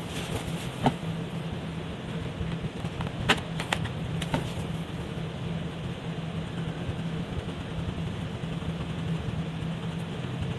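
Felt-tip markers coloring on paper, under a steady low hum, with a few sharp clicks in the first half.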